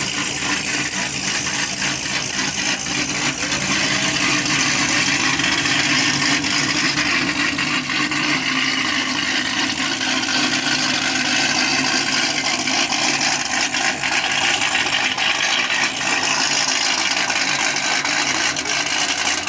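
Car engines running steadily under a loud, even rushing noise.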